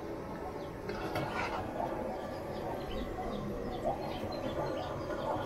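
Small birds chirping over and over in the background, short high chirps several times a second, over a steady outdoor hum.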